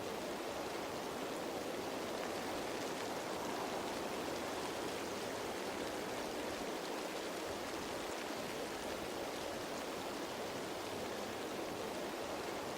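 Steady rain falling on leaves: an even, unbroken hiss of many small drops.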